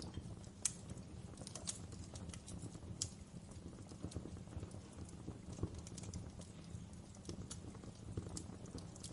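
Wood fire crackling in a fireplace: irregular sharp pops and snaps over a steady low rumble of the flames, with the loudest pop just under a second in.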